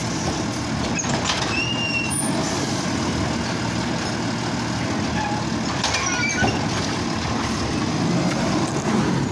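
Garbage truck's diesel engine running with a steady low rumble, with a few brief high squeaks over it.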